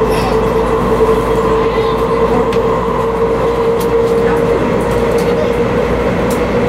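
Running noise inside a 500 Series Shinkansen passenger car at speed: a steady rumble of wheels and air with a sustained high whine that drops slightly in pitch about four and a half seconds in.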